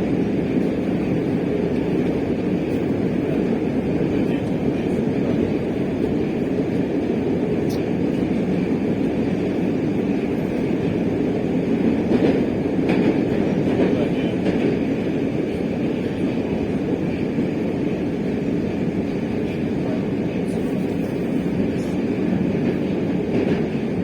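Metro train running at speed between stations, heard from inside the car: a steady low rumble of wheels on the rails and running gear, with faint ticks now and then.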